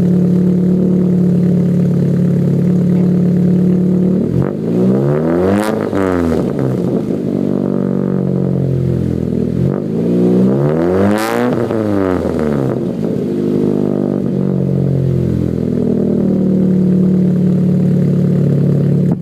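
Chevrolet Cobalt's four-cylinder engine, fitted with an aftermarket header, a catless downpipe and a 2.5-inch cat-back exhaust, idling and then blipped twice: the pitch rises sharply about five seconds in and again about eleven seconds in, each time dropping back to idle.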